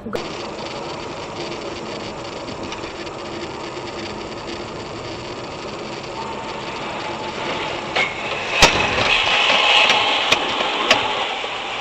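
Steady road and engine noise of a car on the move, heard from inside the car. In the second half it grows louder, with several sharp clicks or knocks, the loudest about eight and a half seconds in.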